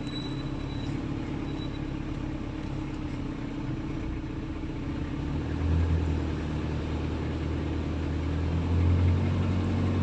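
A motor vehicle's engine running with a steady low drone, getting louder and deeper about halfway through.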